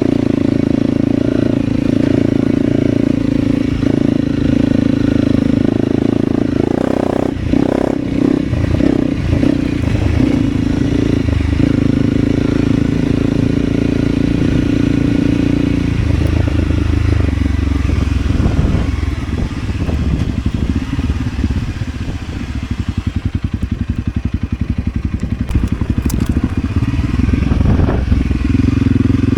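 Motorcycle engine running under way, holding steady revs for about the first half, then dropping to low revs where the separate firing beats can be heard, and picking up again near the end.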